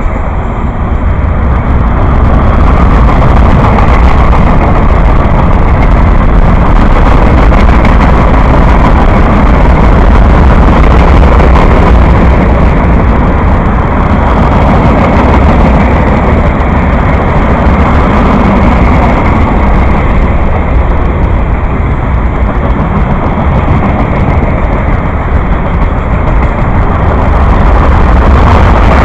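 A train passing close by: a loud, steady rumble of wheels and cars on the rails that builds over the first couple of seconds and then holds.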